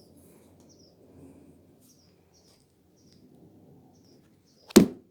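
Faint, scattered high chirps, like small birds, over a low rumble, then one sharp loud knock near the end.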